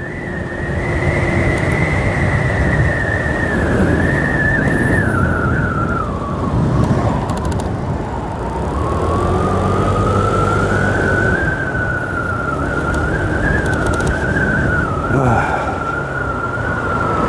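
A 125 cc learner motorbike being ridden, with steady road and wind noise and a high engine whine. The whine sinks as the bike slows about six to eight seconds in, then climbs again as it pulls away.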